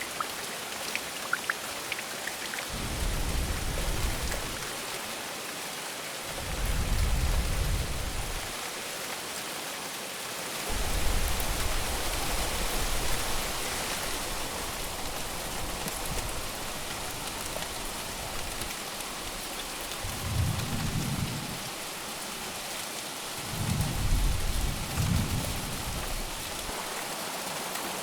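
Heavy rain falling steadily, with about five low rolls of thunder that swell and fade over one to three seconds each, the longest about a third of the way in.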